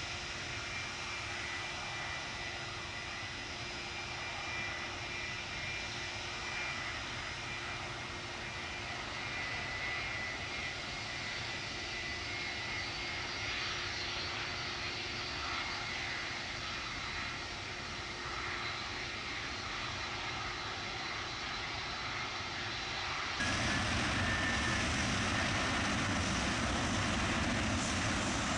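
Jet airliner's engines running at takeoff power on its takeoff run: a steady rushing noise with a thin high whine. It jumps abruptly louder about 23 seconds in.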